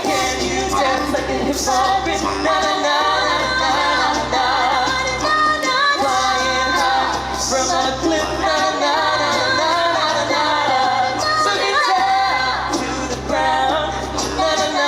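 A small vocal group singing a lively pop-style song in harmony, mostly women's voices, over long held bass notes that change about every three seconds.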